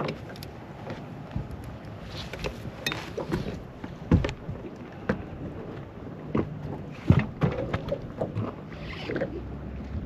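Water slapping against the hull of a small fishing boat, with irregular knocks and clicks on the boat and a brief rush of water near the end.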